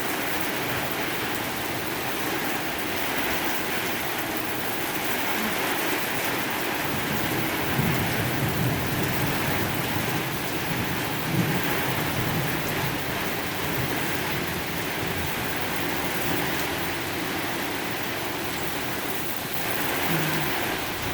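Heavy rain pouring steadily in a severe thunderstorm, with low rumbles of thunder, strongest around the middle.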